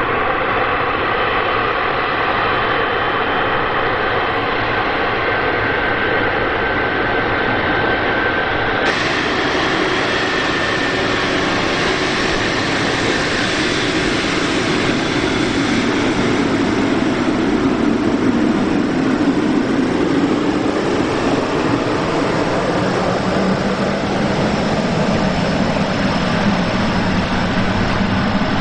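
Boeing 777 freighter's jet engines, loud and continuous with a steady whine; in the second half the low rumble slides down in pitch as the aircraft goes past.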